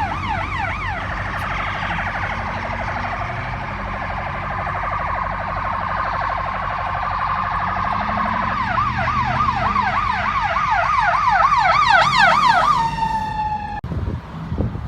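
Electronic emergency-vehicle siren switching between tones: a very rapid phaser warble, then a yelp sweeping up and down about three times a second that grows louder, ending in a steady tone that cuts off about a second before the end.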